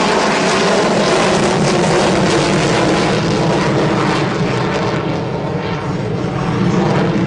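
F/A-18E Super Hornet fighter jet flying a display, its twin jet engines giving a loud, steady roar that eases slightly partway through.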